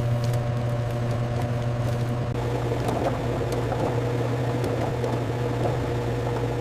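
Steady low machine hum with a higher steady tone over it, and a soft crackling or bubbling texture that comes in about two and a half seconds in.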